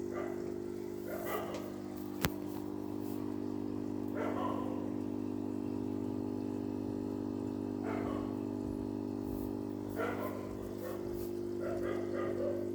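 A dog barking a handful of times, in short separate barks, over a steady low hum. One sharp click sounds about two seconds in.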